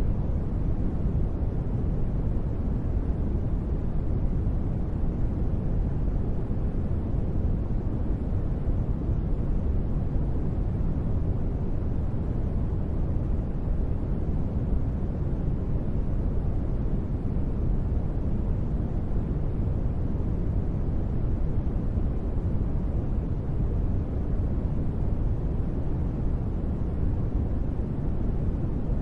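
Steady space-ambience noise track: an even, deep rumbling hiss, heaviest in the bass and soft in the treble, that does not change.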